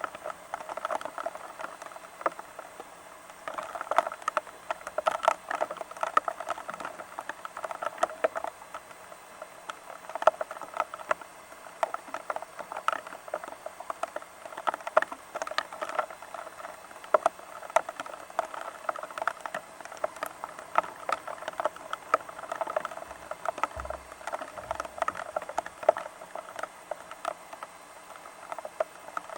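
Rain pattering: a dense, irregular run of drops tapping on a surface, some taps louder than others.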